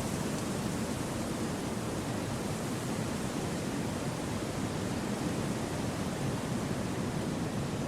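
Wind rushing steadily through forest trees: an even, unbroken hiss with no gusts or swells.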